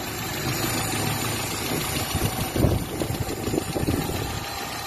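Carburetted Mitsubishi Galant engine idling steadily, with a couple of brief louder swells in the second half. It is freshly top-overhauled, with new valve seals and a rebuilt carburettor, and is running smoothly and evenly.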